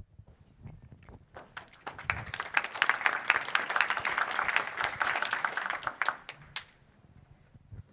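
Audience applauding: a few scattered claps that swell into steady applause about two seconds in, then die away a second or so before the end.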